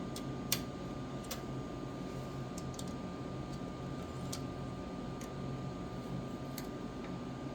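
Scattered light clicks, about one a second at irregular spacing, from a 4 mm Allen key turning the Allen-head bolts of a small engine's valve cover, over a steady background hum.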